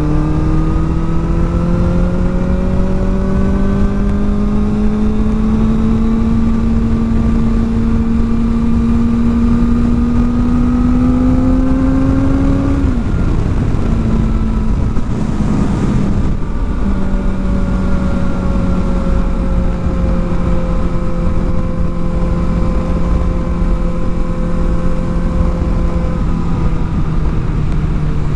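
Kawasaki Ninja ZX-4R's inline-four engine through an aftermarket exhaust while riding. The engine note climbs steadily for about thirteen seconds, breaks off briefly, then falls slowly as the bike eases off, over a steady wind rush.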